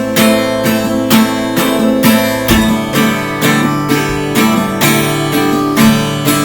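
Acoustic guitar strummed in a steady rhythm, about three strums a second, with a chord change about two and a half seconds in.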